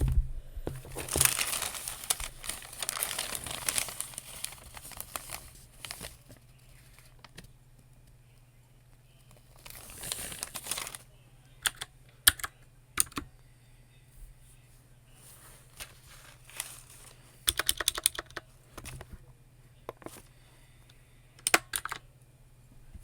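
Paper crinkling in two spells, the first starting about a second in and lasting a few seconds, the second around the middle, then computer keyboard typing and clicks, sparse at first and in quick clusters near the end.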